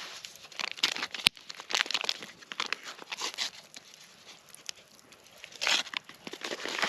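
Irregular crinkling and crunching of dry material, with one sharp snap about a second in.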